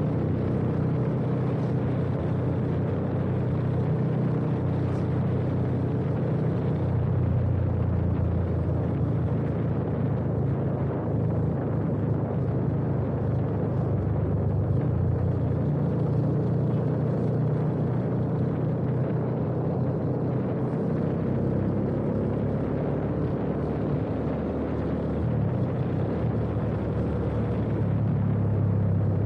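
Yamaha FZ25's single-cylinder engine running steadily under way through a full aftermarket exhaust with an Akrapovič R1M-replica slip-on. Engine speed is held fairly even, picking up a little near the end.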